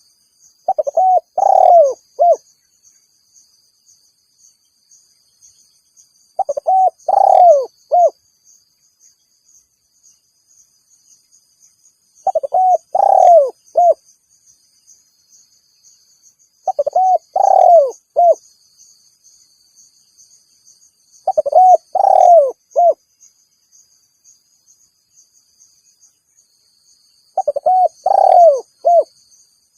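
Spotted dove (tekukur) cooing: six repeated call phrases, each a short run of coos lasting about a second and a half, coming about every five to six seconds. It is the dove's calling song, used to call in a rival.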